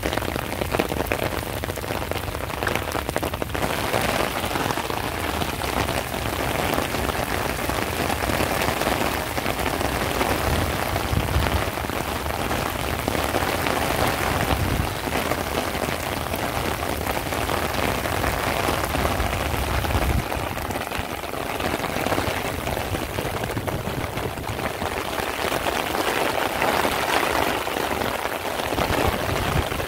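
Heavy rain falling steadily on a wet paved street.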